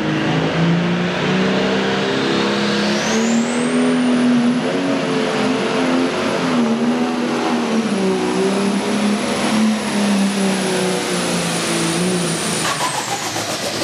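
Pro stock pulling tractor's turbocharged diesel engine running hard under load. A high turbo whine rises about three seconds in, holds steady, and falls away near the end as the engine comes off power.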